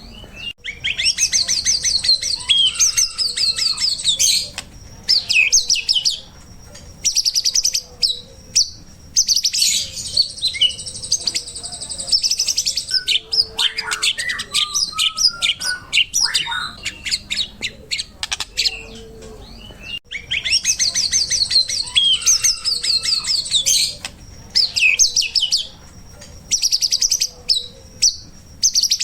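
White-rumped shama (murai batu) singing in quick bursts of rapid chattering trills and whistles, with short pauses between phrases. The same run of phrases comes round again about twenty seconds in, as a looped recording.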